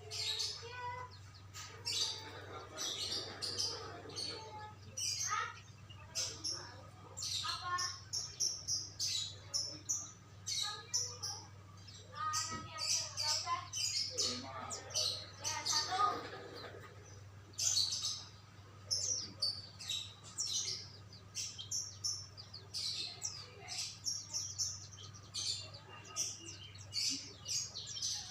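Songbirds chirping and singing in quick, high, repeated phrases throughout, with faint voices in the background and a steady low hum.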